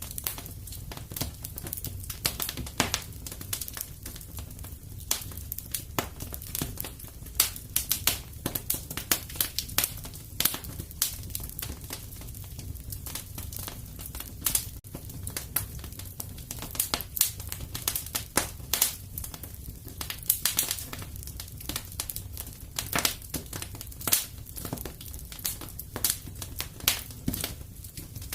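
Wood fire crackling and popping in a fireplace: irregular sharp snaps over a steady low rumble of flames.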